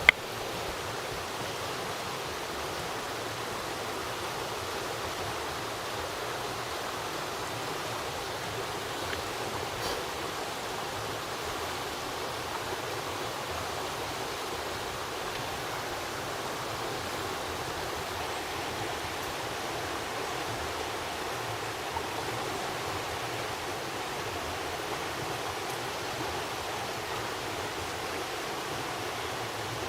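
Steady rush of flowing stream water, even and unbroken, with a sharp click at the very start.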